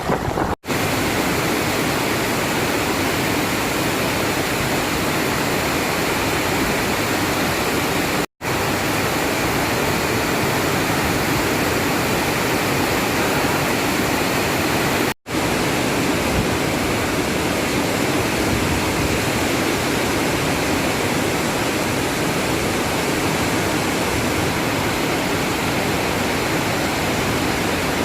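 Heavy rain pouring down in a dense, steady hiss, cut to silence for an instant three times.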